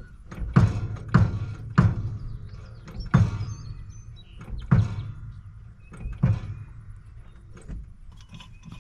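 Six heavy thunks, each ringing briefly: three about half a second apart, then three more about a second and a half apart.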